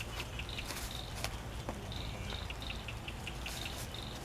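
Insects chirping in short repeated bursts, high-pitched, over a steady low hum, with a few faint clicks.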